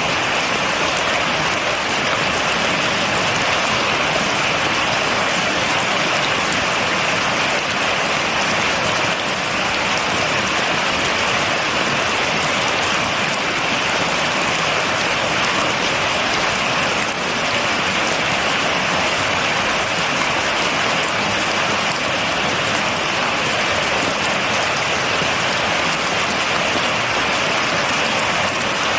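Steady heavy rain falling and pattering on a surface, a dense even hiss of drops with no thunder.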